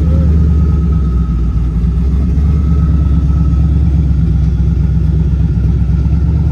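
Twin-turbo Chevy Caprice's engine running steadily with a deep, even rumble and no revving.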